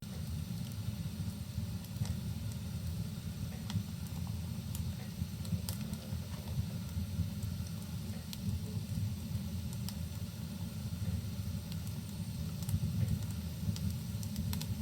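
Fireplace fire crackling, with scattered small pops over a steady low rumbling noise: a rain-and-fire ambience.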